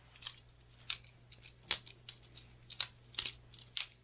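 Boker Plus balisong butterfly knife being flipped by hand: a string of sharp metallic clicks as the handles and blade swing and knock together, about six at uneven spacing.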